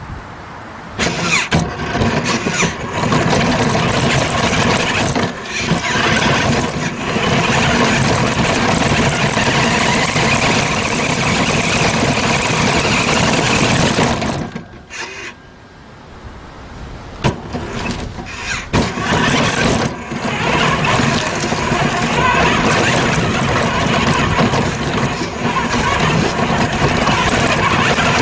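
1/8-scale RC truck running, a dense mechanical sound with a squeal in it. It drops away briefly just after the start and again for about two seconds around the middle, then picks back up.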